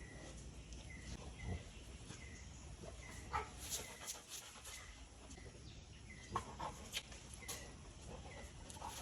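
Faint bird calls: a short chirp repeating about twice a second, with a few sharp clicks among them.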